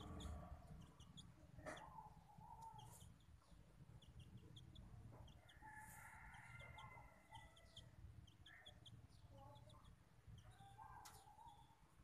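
Faint bird sounds: scattered short high chirps and squeaks, with a longer call about six seconds in, over a low rumble.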